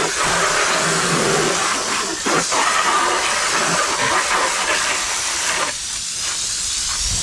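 Water spraying steadily in a hissing jet against a dirt bike as it is washed, easing briefly about six seconds in.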